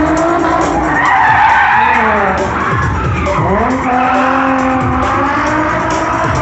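Car engine revving hard, its pitch rising and falling several times, with tires skidding on pavement. Music plays underneath.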